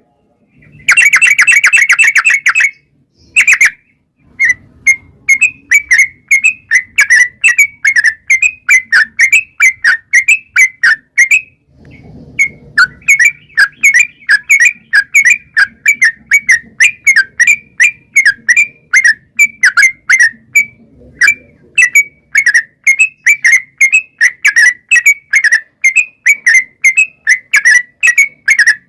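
Yellow-vented bulbul (trucukan) singing a long, fast song of short, bubbly, whistled notes repeated about three to four times a second. It opens with a brief rapid trill about a second in, and the song breaks off briefly twice, about halfway through and again near two-thirds of the way.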